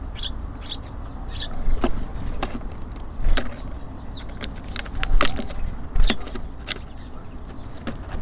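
Small birds at a wooden bird feeder: irregular sharp taps and knocks of pecking and landing on the wood, with a few short high chirps, over a steady low rumble of city traffic.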